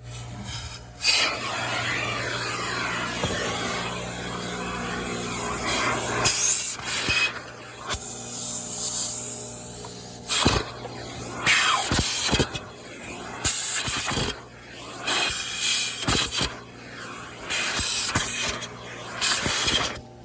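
Self-serve car wash vacuum hose sucking air: a steady motor hum under a rushing suction hiss that surges and drops irregularly as the nozzle works over the car.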